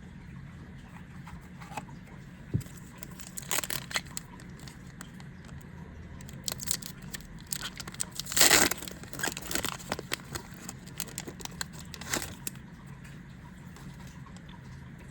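A Yu-Gi-Oh! foil booster pack being torn open and its cards handled: scattered crinkles and clicks, with the loudest rip a little past halfway.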